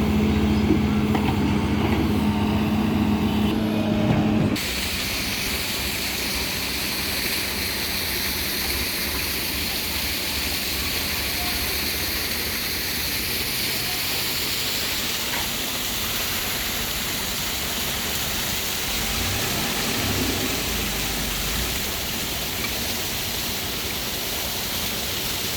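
A diesel engine of a backhoe or tractor running steadily, then an abrupt cut about four and a half seconds in to a steady hiss, with the engine faint beneath it.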